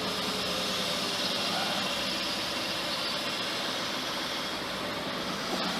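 Ford flathead engine in a truck idling steadily.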